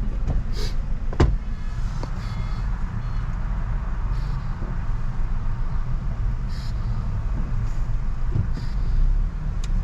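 Steady low rumble of a car driving, heard from inside the cabin, with a sharp click about a second in and another near the end.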